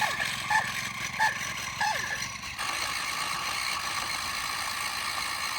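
Small motor and gearing of a miniature RC tractor's rotavator running with a steady whine. For the first two and a half seconds a short high chirp repeats about every 0.7 s, then stops.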